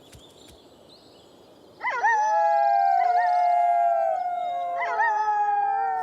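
Two young wolves howling together in a cartoon. Their two long howls start about two seconds in, overlap at slightly different pitches and slowly fall. Fresh howls rise again about five seconds in.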